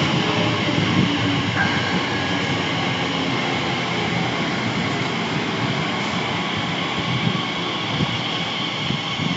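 Class 345 electric multiple unit in the platform, a steady mechanical hum with high-pitched whining tones.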